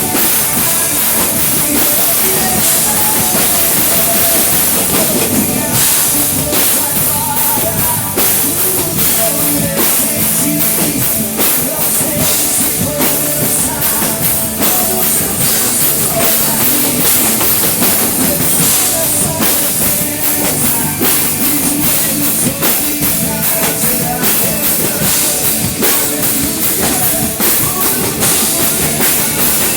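A live band playing an instrumental passage with the drum kit to the fore: fast, dense drum strokes over held bass and keyboard or guitar notes.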